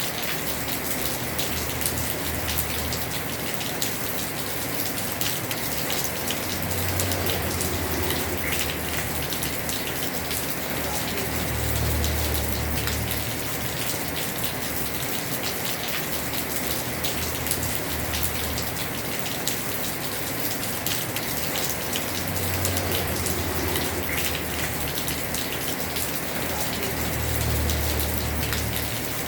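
Heavy rain falling steadily on a house roof, a dense hiss of countless drop impacts. Under it, a low rumble swells and fades about every five seconds.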